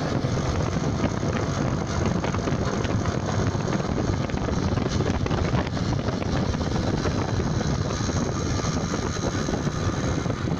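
Scooter engine running with an abnormal mechanical noise from the left side, a dense rattling with fine ticks. The owner suspects a fault in the variator or transmission, since the scooter also loses power and will not go beyond 20 km/h.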